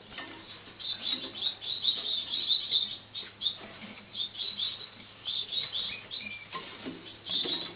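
Society finches chirping: quick runs of short, high calls with brief pauses between the runs. A couple of soft knocks come shortly before the last run of calls.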